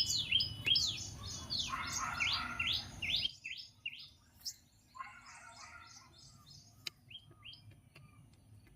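Birds chirping: quick, high, downward-sliding chirps, dense for the first three seconds or so and then sparser.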